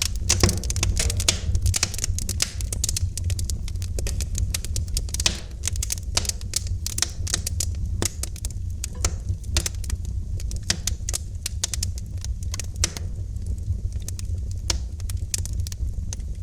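Wood fire in a fireplace crackling, with many irregular sharp pops and snaps over a steady low rumble of the burning fire.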